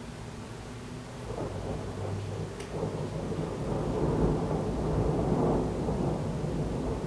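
Thunder rumbling over steady heavy rain, swelling from about a second in to its loudest around the middle, with a short sharp crack a little under three seconds in.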